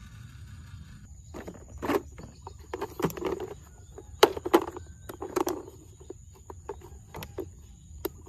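Small toy cars being handled: an irregular string of clicks and knocks, some with a short thud, loudest a little past the middle.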